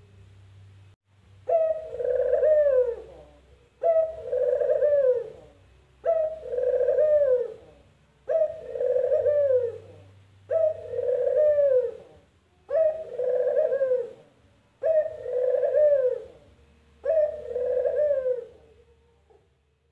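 Barbary dove (burung puter) cooing its 'kuk geruuuk' call eight times in a steady series: each call is a short note run into a longer rolling coo that falls away at the end.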